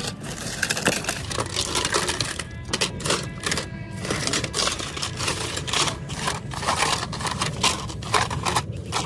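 Continuous rapid clicking and clattering of small hard objects, irregular and dense throughout.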